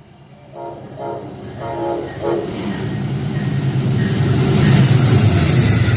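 Diesel passenger train sounding several short blasts on its multi-chime horn, then approaching with a deep engine rumble and rising wheel and air noise that grows steadily louder.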